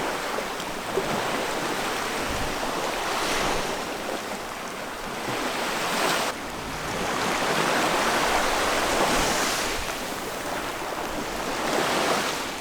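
Sea surf washing on the shore, with a wave surging in about six seconds in and ebbing away by about ten.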